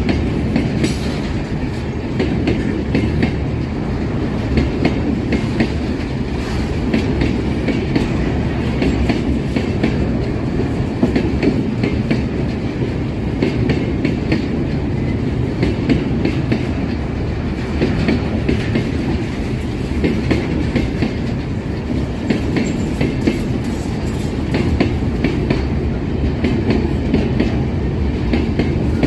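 Empty freight train rolling past, its wheels clattering steadily over the rail joints above a constant rumble.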